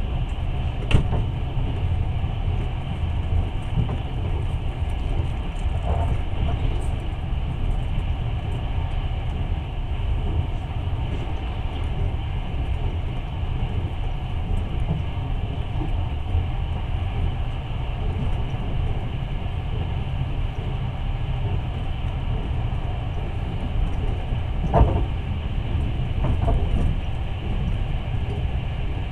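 Passenger train running along the track, heard from inside the carriage: a steady low rumble of the wheels on the rails. A few sharp knocks come through, one about a second in, another a few seconds later, and two more near the end.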